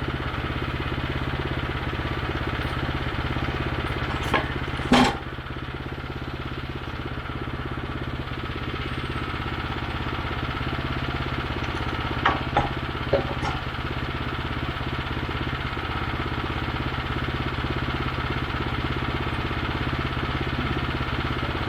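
Small gas engine of a Woodland Mills bandsaw mill running at a steady speed. There are a couple of sharp knocks about four to five seconds in and three more in quick succession around twelve to thirteen seconds in.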